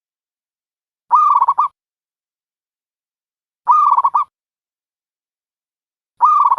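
Dove cooing: three short calls about two and a half seconds apart, each a pitched coo around half a second long that breaks into a quick stutter at its end.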